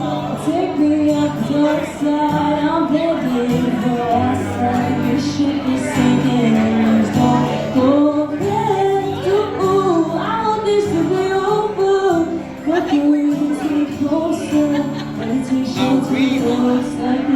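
A young girl singing a song over steady instrumental accompaniment of held low notes.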